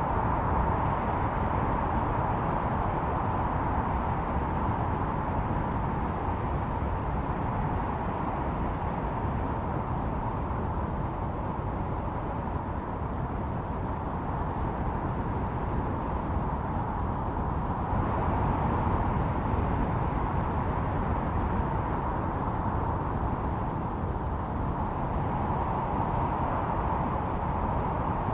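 Snowstorm wind blowing steadily, with a howling tone that swells and eases slowly over several seconds, over a low rumble.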